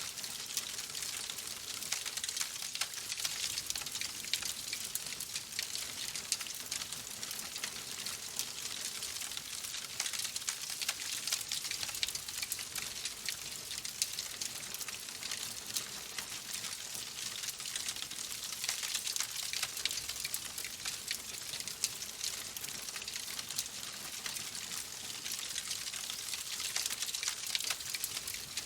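Wood fire crackling steadily in a fireplace: a dense, continuous run of small pops and snaps over a soft hiss.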